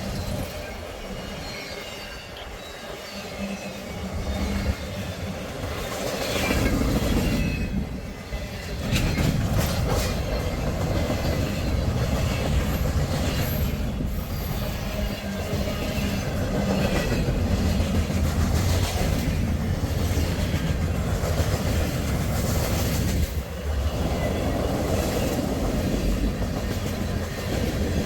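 Freight train rolling past, its cars rumbling and clattering steadily on the rails, louder from about six seconds in.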